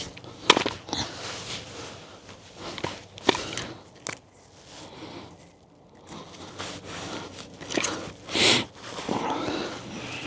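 Scattered clicks, knocks and scuffs of hands working on the frame, with a short burst of hiss about eight seconds in.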